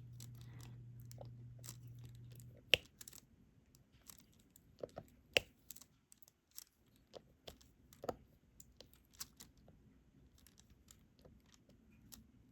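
Diamond-painting stylus picking up drills and tapping them onto the adhesive canvas: irregular small clicks, a few of them louder, at an unsteady pace. A low hum underneath stops about two and a half seconds in.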